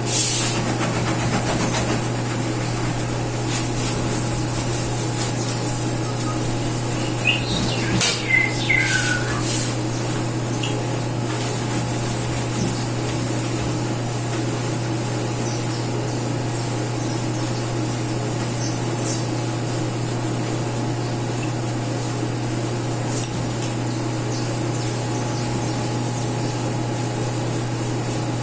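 A steady low electric hum, with a few short high chirps about seven to nine seconds in.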